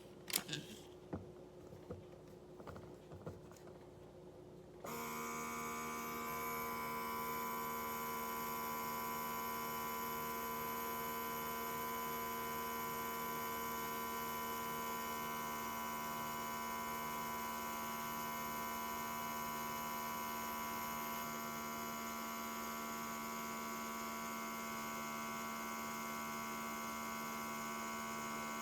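A few light clicks, then about five seconds in a steady electric hum with a high whine starts suddenly and runs on evenly.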